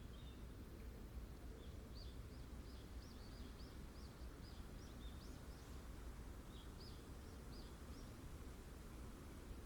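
Strong wind in a forest as a faint, steady low rumble, with a small bird calling in quick short high chirps, a run of them from about two seconds in and a few more near the end.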